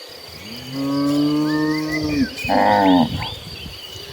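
Cattle mooing: one long, low moo starting about half a second in, followed by a shorter, higher moo near the three-second mark.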